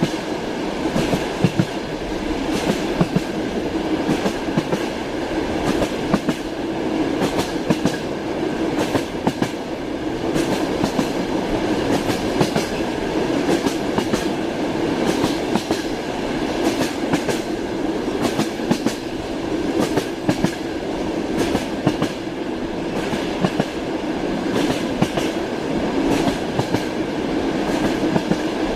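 Train wheels clattering over the rail joints as the train runs along the track: a steady rumble broken by frequent sharp knocks.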